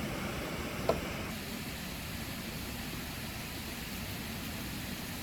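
Waterfall rushing in a steady, even wash of noise, with a brief high squeak about a second in.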